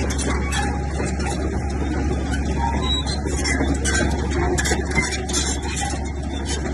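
Heavy earthmoving machinery's diesel engine running steadily under load, with irregular rattling and clatter over it.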